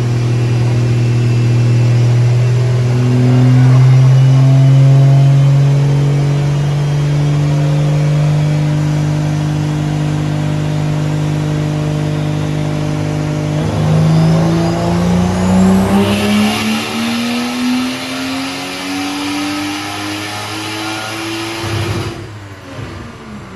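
Car engine on a chassis dynamometer making a pull. The engine note is fairly steady at first, then from a bit past halfway climbs steadily through the revs until it cuts off near the end and winds down as the throttle closes.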